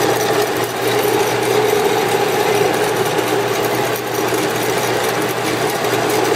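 A 7-by-12-inch horizontal band saw running steadily: its 115-volt motor humming and the blade turning.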